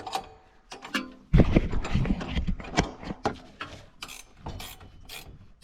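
Metal tools and parts clinking and knocking in a run of irregular knocks, loudest about a second and a half in, as tools are rummaged through and handled during a chain repair.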